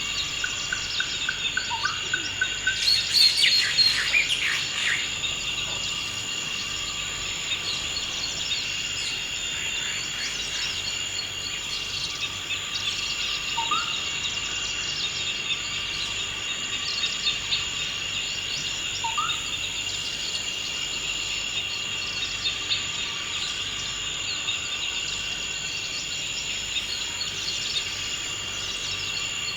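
Forest ambience: a steady, high insect chorus runs throughout while birds call over it. There is a quick run of repeated notes about a second in, a louder burst of song a couple of seconds later, and two short rising chirps in the middle.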